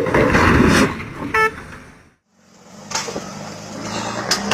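A loud rough burst of vehicle noise, then a short horn toot about a second and a half in. After a sudden drop to silence, a vehicle engine drones steadily.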